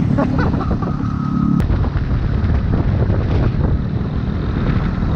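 Motorbike running on the road with wind buffeting the microphone. A steady engine tone gives way about a second and a half in to mostly rumbling wind noise.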